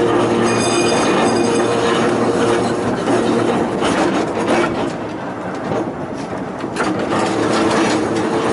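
Volk's Electric Railway car running along the narrow-gauge track with a steady electric hum. A brief high wheel squeal comes about half a second in, and a sharp rail click comes near the end.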